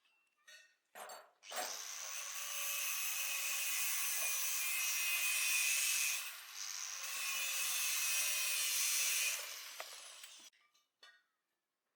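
A handheld power tool working steadily for about nine seconds, easing off briefly in the middle.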